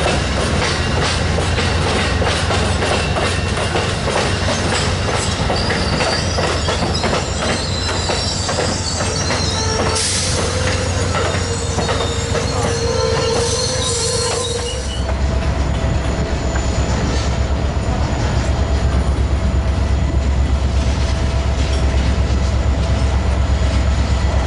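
Train rolling past, its wheels clicking over rail joints, with high wheel squeal partway through. About fifteen seconds in the sound changes to a steady low drone with a single held tone.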